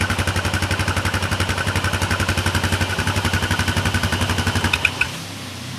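ATV engine idling close by with an even, rapid putter, cutting off abruptly about five seconds in.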